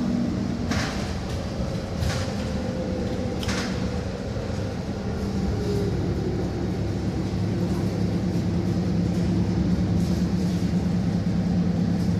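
City bus heard from inside, its engine running with a steady low hum, with a few sharp clicks in the first few seconds. The hum grows a little louder past the middle.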